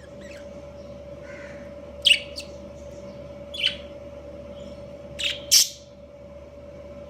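Budgies giving short, sharp chirps and squawks: about five loud calls in three groups, with fainter chirps between. A steady hum runs underneath.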